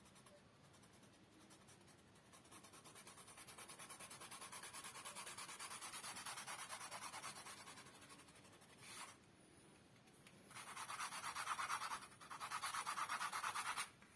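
Colour pencil shading on paper in rapid scratchy strokes. One long spell of strokes is followed by a brief pause and a second spell near the end.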